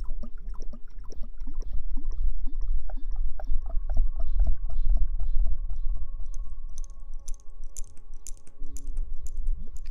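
Close-miked wet squelching of hair being lathered and washed: a quick, even run of short gurgling squelches over a deep rumble, with faint crackling in the second half.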